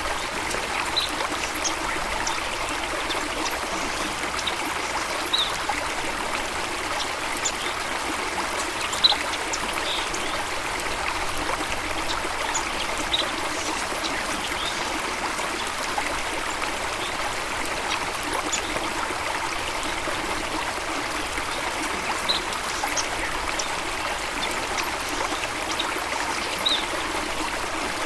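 Water flowing steadily over rocks in a stream, a constant rushing and trickling. Brief high-pitched notes are scattered across it.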